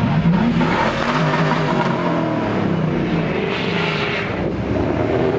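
Truck engine running and revving, its pitch rising and falling.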